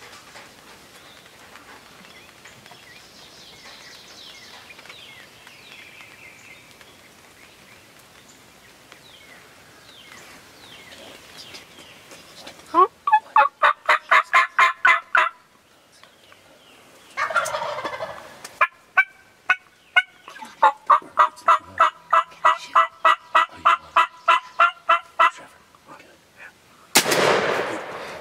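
Wild turkeys calling: faint birdsong at first, then two runs of rapid yelps about four a second, each cut off by a loud gobble, the louder gobble coming near the end.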